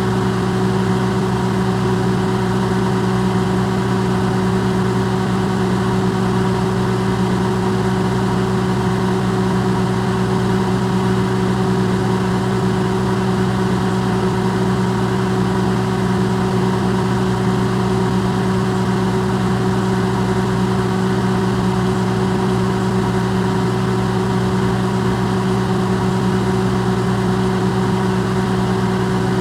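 Electrolux microwave oven running, recorded amplified: a steady, unchanging hum of several low tones over an even hiss.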